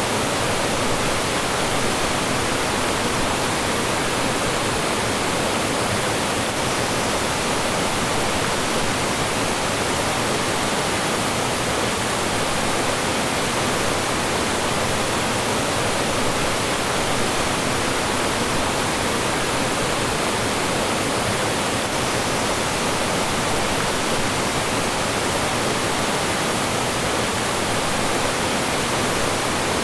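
Mountain stream rushing over rocks and small falls: a steady, even roar of flowing and falling water.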